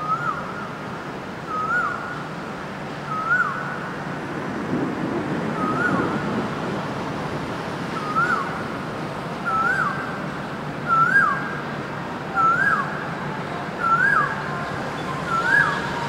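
A bird calling over and over, a short whistled note that rises then drops sharply, about every one and a half seconds and growing louder toward the end. Low traffic hum underneath, with a vehicle rumbling past around the middle.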